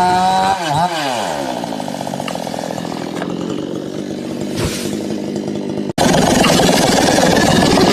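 Two-stroke chainsaw held at high revs, then easing off so its pitch slides down within about a second and settles to a steady idle. About six seconds in, an abrupt cut to a louder, rougher engine sound.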